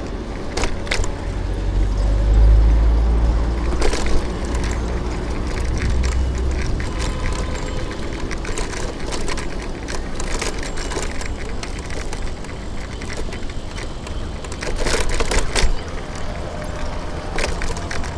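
City street traffic heard from a moving bicycle, with a deep rumble of wind and road noise on the microphone that swells over the first few seconds as a vehicle goes by. Scattered short clicks and rattles run through it.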